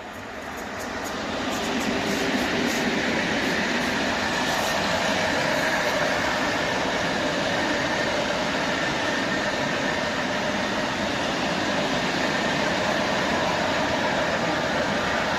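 Freight train hauled by an ET41 twin-unit electric locomotive passing close by. The rumble of wheels on rail grows over the first two seconds, then runs on steadily with a faint whine.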